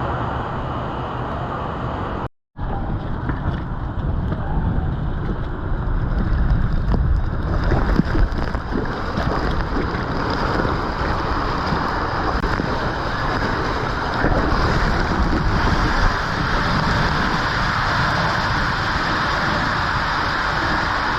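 Wind buffeting the microphone over a steady rush of water, with a brief cut to silence about two seconds in.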